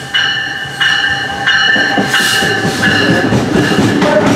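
An NJ Transit double-deck commuter train passing close along the platform as it arrives, its bell struck about every two-thirds of a second. From about two seconds in, the rumble and clatter of the wheels on the rails grows louder, with a brief hiss at about that point.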